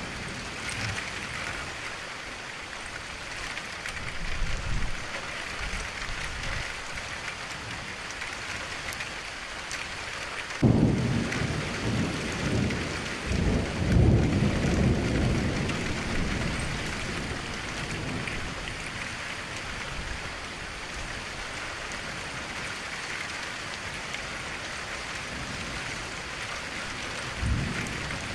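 Steady rain falling against a window, with deep rolls of thunder. The loudest thunder breaks suddenly about ten seconds in and rumbles on for several seconds, with softer rumbles before and near the end.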